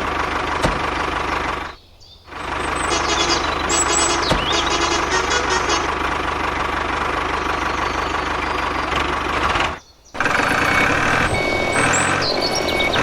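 Vehicle engine running steadily, cut off briefly twice, about two seconds and ten seconds in.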